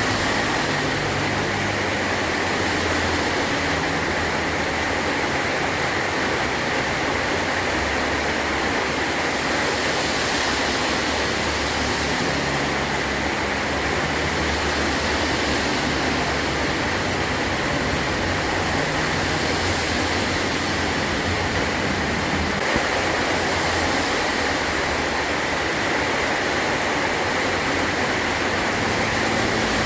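Heavy rain falling on a metal roof: a steady, dense hiss with no let-up.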